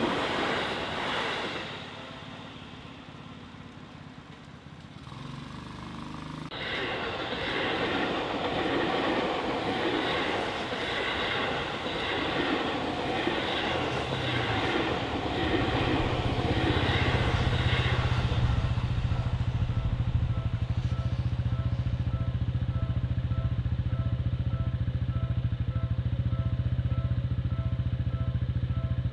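Seibu Railway electric train sounds by the track: rushing running noise that changes abruptly about six seconds in. A steady low hum then builds, and in the second half a short repeating tone pulses a little under twice a second.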